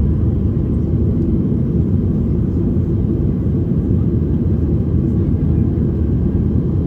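Steady low rumble of an airliner's jet engines and airflow, heard from inside the passenger cabin.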